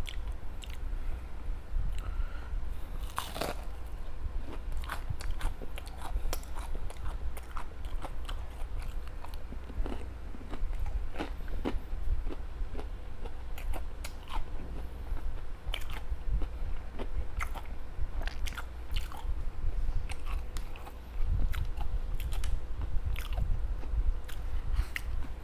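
A person biting into and chewing homemade fried fish balls or veggie balls, with many small crunching clicks.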